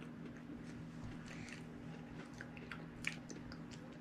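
Faint chewing of marshmallow Peeps candy, with scattered small wet mouth smacks and lip clicks, one a little sharper about three seconds in.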